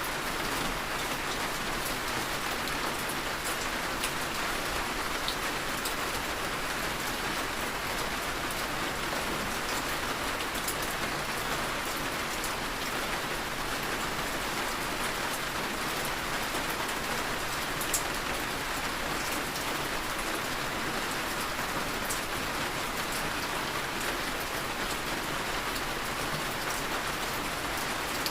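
Heavy, steady rain falling, with scattered sharp drips of individual drops.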